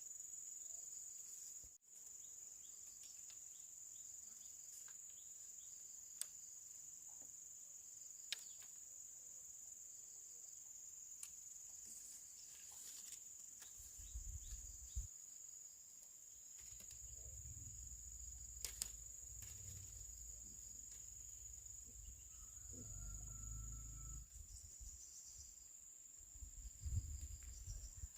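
Steady, high-pitched chirring of insects such as crickets, running unbroken, with a few faint clicks and bouts of low rumble in the second half.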